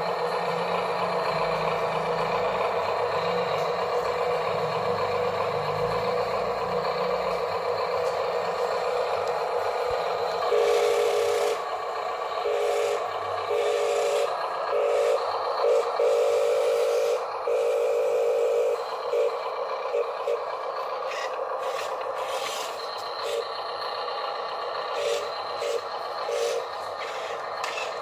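Small electric motors of toy RC dump trucks whining steadily. From about ten seconds in, one motor whine starts and stops in short, uneven bursts.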